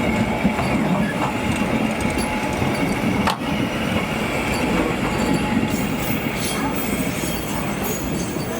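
Toyama Chiho Railway streetcar running on street track: a steady rolling rumble with a thin, steady high tone above it. There is one sharp click a little over three seconds in.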